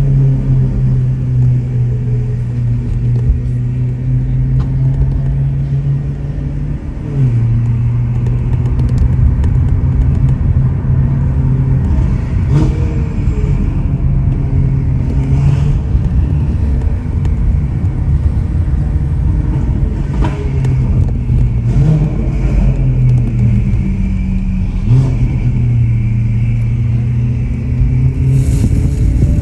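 Ferrari 488 Pista's twin-turbo V8 with an aftermarket Ryft exhaust, running loudly while the car is driven. It holds a steady drone and changes pitch about five times, with dips and rises as the throttle or gear changes.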